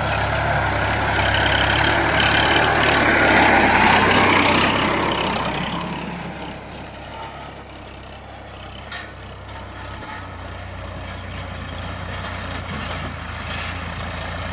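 Sonalika 745 tractor's diesel engine running with a steady low hum. A louder swell of engine noise builds over the first four seconds and dies away by about six seconds, after which the engine runs on more quietly, with one sharp click near the nine-second mark.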